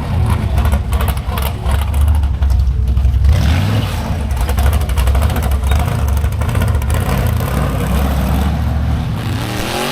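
Car engine running with a deep, rumbling exhaust, its pitch rising and falling briefly near the end.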